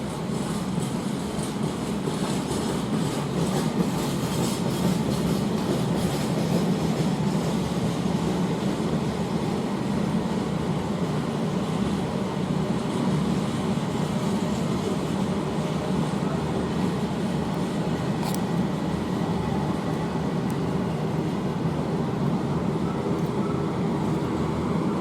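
A long freight train's wagons rolling past on the rails: a steady rumble, with wheel clatter over rail joints in the first few seconds.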